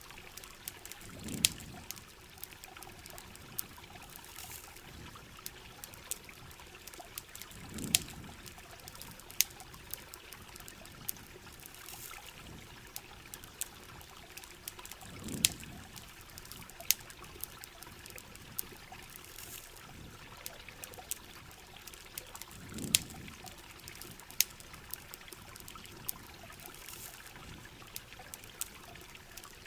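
Steady rain and trickling water with frequent sharp crackles and pops from a campfire. A low, soft swell recurs about every seven and a half seconds.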